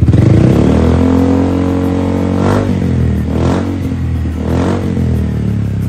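Yamaha XMax 250 scooter's single-cylinder engine revved through an aftermarket X1 exhaust with a deep bass note. It rises from idle at the start and then swells and falls several times.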